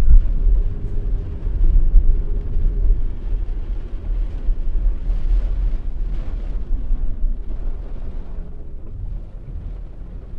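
Noise inside a moving car's cabin: a heavy low rumble from the engine and the road, with a few louder swells near the start.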